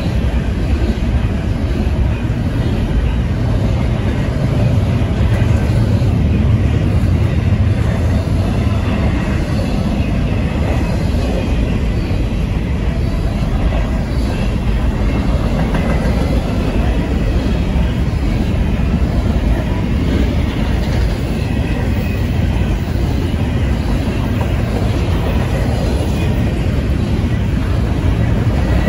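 Freight train of double-stack intermodal container well cars rolling past: a steady, loud rumble and clatter of steel wheels on the rails.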